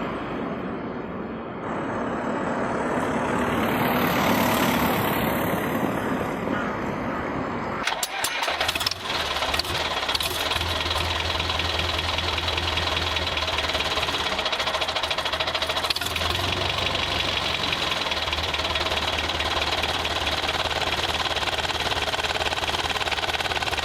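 A swelling and fading rushing noise, then a few clicks about eight seconds in, after which a tractor-like engine sound starts and runs steadily with a fast, even knock.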